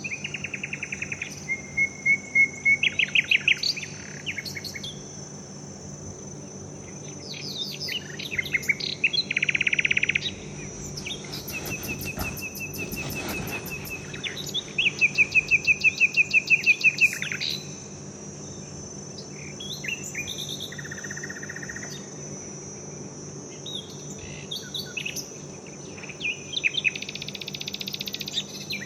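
Birds singing in bursts of rapid repeated chirps and trills, over a steady high-pitched insect drone.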